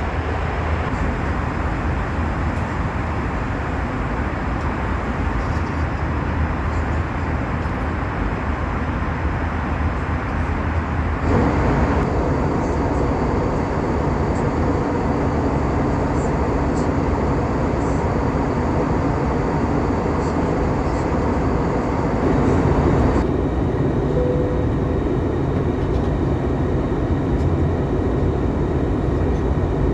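Airbus A321-200 cabin noise in flight: a steady, loud rush of engine and airflow noise. Its tone changes abruptly about 11 seconds in and again about 23 seconds in.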